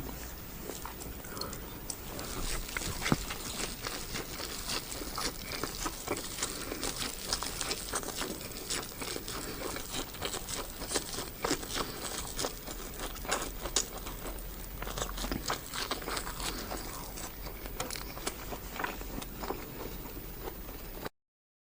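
Close-miked ASMR eating sounds of a person chewing spicy karahi: a steady run of small wet clicks, smacks and bites. It stops abruptly near the end.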